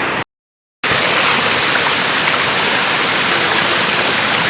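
Steady rush of waterfall water pouring over rocks. It drops out completely for about half a second just after the start, then resumes.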